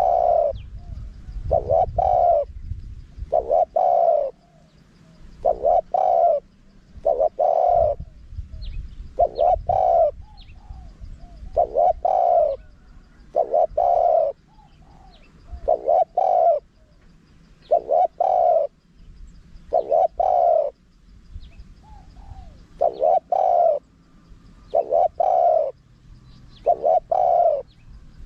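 Spotted dove cooing in short phrases of two or three deep coo notes, repeated about every one and a half to two seconds. A low rumble comes and goes underneath.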